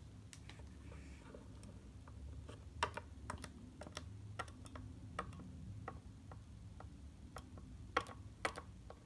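Irregular light clicks and taps of small plastic objects being handled, over a faint low hum. A few sharper clicks come about three seconds in and twice near the end.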